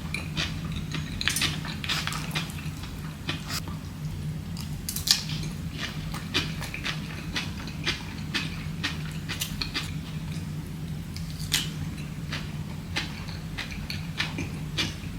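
Close-miked chewing and biting of someone eating a poke bowl, with irregular short clicks of a utensil against the bowl. A steady low hum runs underneath.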